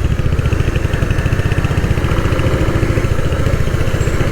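Motorcycle engine running with a steady, rhythmic throb.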